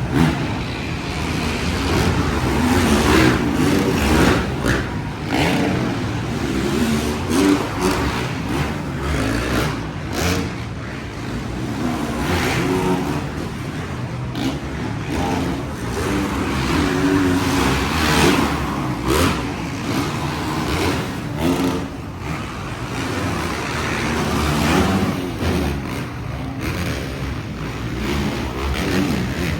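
Dirt bike engines revving during a supercross race, their pitch rising and falling again and again, with occasional sharp cracks.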